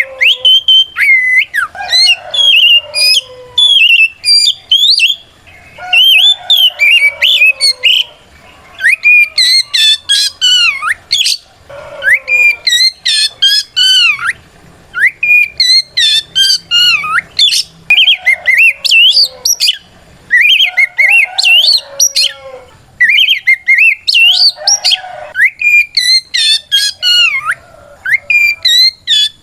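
Oriental magpie-robin singing loudly: phrase after phrase of sliding whistled notes in bursts of a second or two, with short pauses between. It is the open 'ngeplong' challenge song, a male calling out a rival.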